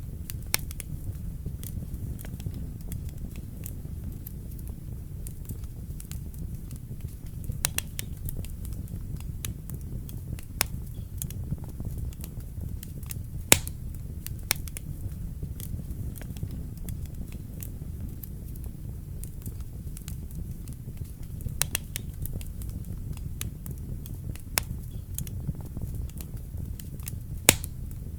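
Wood fire burning in a fireplace: a steady low rumble of flames with sharp crackles and pops at irregular intervals, two louder pops about halfway and near the end.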